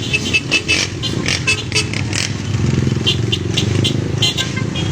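Motorcycle engines running, with many short, sharp high-pitched sounds over the steady low rumble.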